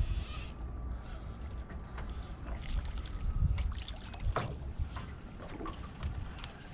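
Wind rumbling on the microphone aboard a small boat, with scattered light knocks and clicks from fishing gear being handled.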